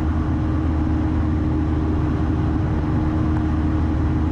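Steady engine and propeller drone heard inside the cabin of a 1972 Cessna 172, its four-cylinder Lycoming engine running at constant power in level flight.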